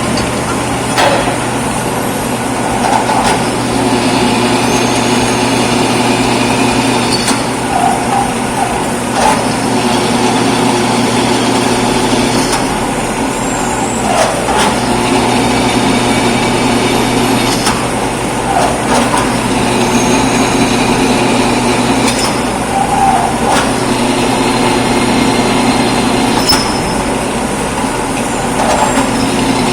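An electric power tool's motor running in repeated stretches of a few seconds, started and stopped about five times. Its pitch slides as the motor spins up or winds down between runs.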